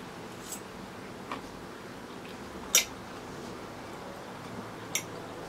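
Four short, light clicks spread over a few seconds, the loudest near the middle, against quiet room tone.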